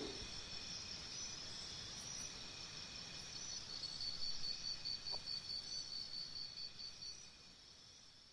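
Faint cricket chirping, a high pulsing trill that stops abruptly about seven seconds in.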